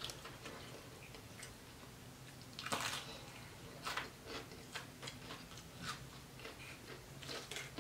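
Quiet chewing of crispy fried fish: scattered soft crunches and mouth clicks, with one louder noise about three seconds in.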